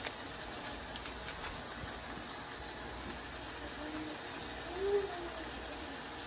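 Chicken breasts and sliced peppers and onions sizzling in a hot skillet, a steady frying hiss.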